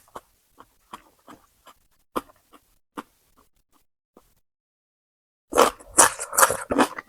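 Close-up eating sounds: soft wet chewing clicks, a short pause about four seconds in, then a loud spell of crunchy chewing lasting about a second and a half.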